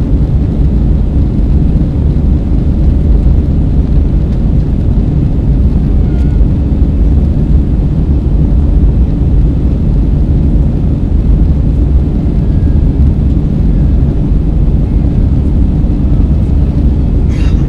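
Airbus A320 in flight, heard from inside the passenger cabin: the engines and the airflow make a steady, loud, low rumble. A brief click sounds near the end.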